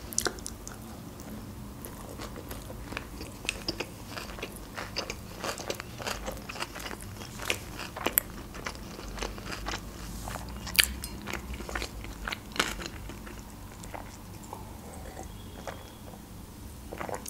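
Close-miked chewing of a large sushi roll, with many small crunches and wet mouth clicks, easing off in the last few seconds. Near the end comes a sip and swallow from a glass.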